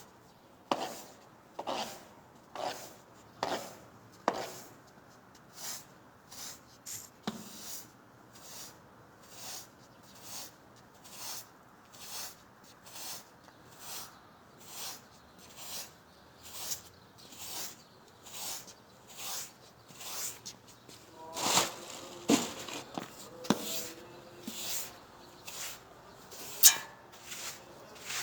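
Short brushing strokes repeated in a steady rhythm, a little over one a second, with a few louder knocks in the second half.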